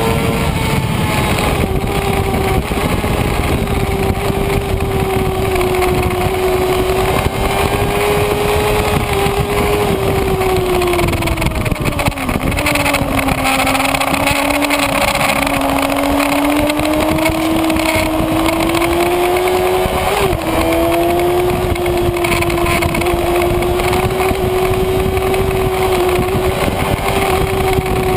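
Kawasaki Ninja ZX-6R's inline-four engine running at high revs under a steady rush of wind noise. Its pitch drops about twelve seconds in, climbs back gradually, and has a short blip about twenty seconds in.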